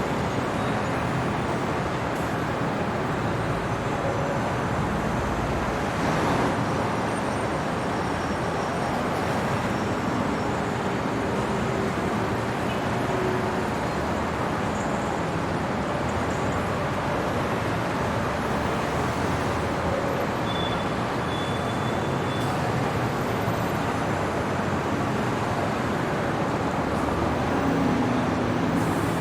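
Steady city traffic noise at night: a continuous hum of road vehicles, with a slight swell about six seconds in and again near the end.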